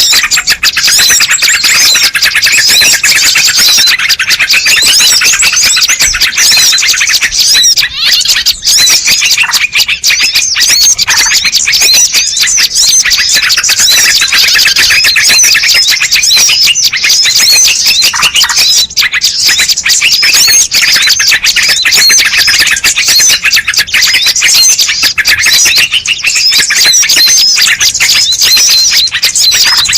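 Bird-lure recording: a dense, unbroken chorus of many small birds chirping and twittering at once, high-pitched and loud, made to draw in birds of all kinds.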